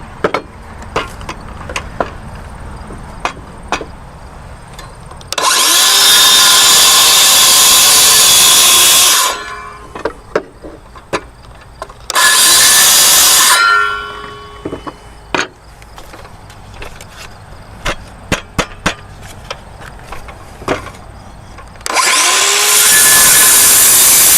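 Power saw cutting notches into lumber: three loud cuts, the first about four seconds long, a short one of a second and a half, and a third near the end. Short knocks and clatter of the wood being handled come between the cuts.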